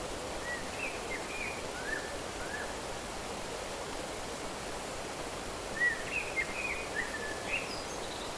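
Steady rush of flowing water with a small bird chirping over it. A short run of quick chirps comes in the first few seconds, and a second, louder run follows near the end.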